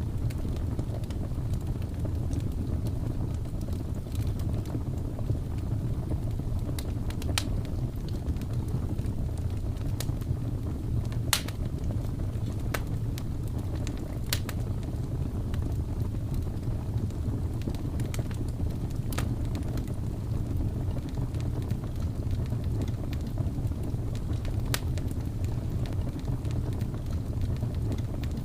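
Wood fire crackling in a fireplace, with scattered sharp pops over a steady low rumble of blizzard wind.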